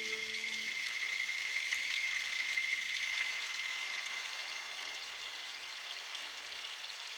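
Steady hiss of rain falling in a forest, with a faint high steady tone running through it. Low held music tones die away just under a second in, leaving the rain alone.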